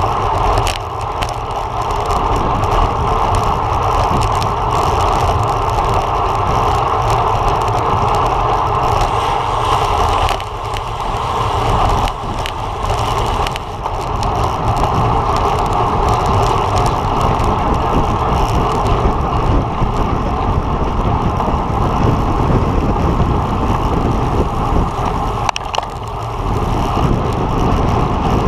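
Steady rush of wind and road noise from riding a road bike at race speed, dipping briefly a few times.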